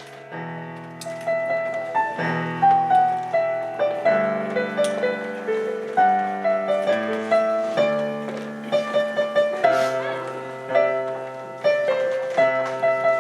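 Piano music: a melody of struck notes over chords, each note ringing and fading.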